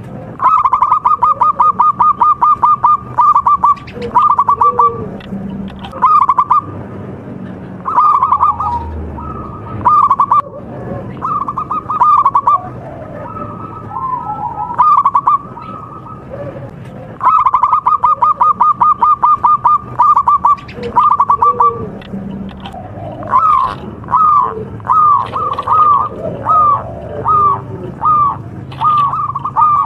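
Zebra dove (perkutut) cooing song: fast rattling runs of short notes near the start and again about seventeen seconds in, between strings of separate, evenly spaced cooing phrases.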